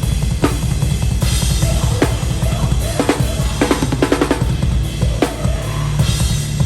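Drum kit played live in a heavy hardcore set: a dense, fast low pulse under sharp snare hits and crashing cymbals, with a quick burst of snare strokes about four seconds in.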